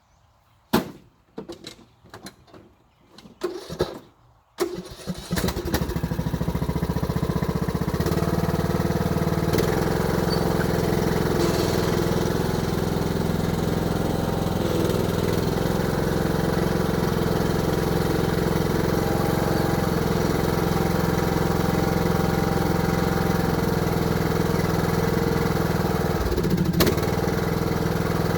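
A few sharp knocks and clicks, then the Craftsman YTS3000 riding mower's engine starts about four and a half seconds in and runs steadily, with one sharp click near the end.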